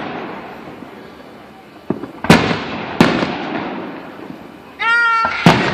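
Aerial fireworks bursting: a small pop, then three loud bangs, each followed by a long echoing rumble that fades away. A brief steady pitched tone sounds just before the last bang.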